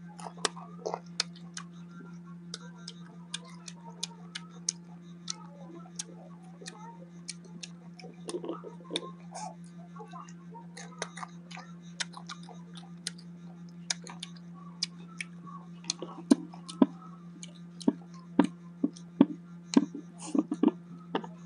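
Close-miked eating of crisp green mango: sharp crunching and mouth clicks that come more often and louder in the last few seconds. A steady low hum runs underneath.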